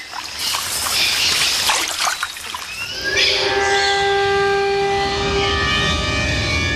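Splashing water for about three seconds, then music comes in with long, held chords that carry on steadily.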